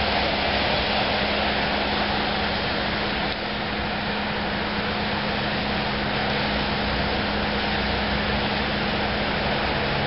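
Steady hiss of rain, with a constant low hum underneath.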